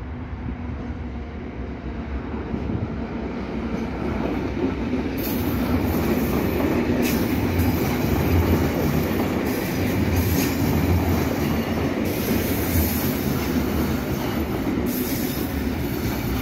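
ŽS series 412 electric commuter train passing close and running under a bridge. It grows louder from about four seconds in, with wheels clattering over rail joints and intermittent high wheel squeal.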